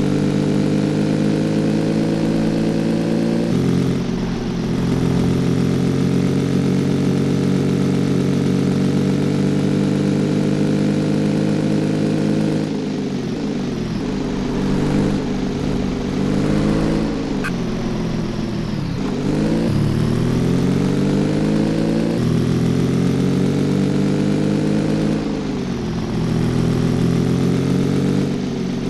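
Cafe racer motorcycle engine running under way, its pitch dropping in sudden steps at gear changes. About halfway through it slows, the pitch falling for several seconds, then picks up again as the rider accelerates away.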